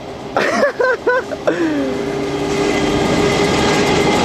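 Train approaching along the tracks, its rumble growing steadily louder, with a horn sounding a steady chord from about a second and a half in. A few short shouts come near the start.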